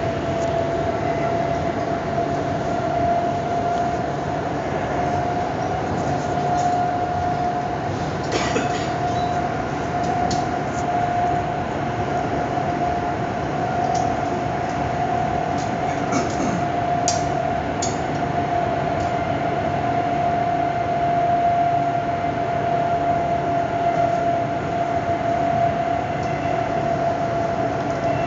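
A passenger train running at speed, heard from inside the carriage: steady running noise with a constant mid-pitched tone over it, and a few short clicks here and there.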